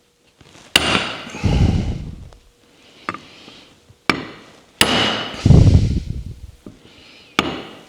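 Hammer blows driving a new lever-shaft seal into the bottom of a Ross steering box casing, seating it just below flush. About five sharp strikes come a few seconds apart, mostly in pairs, each one ringing on briefly.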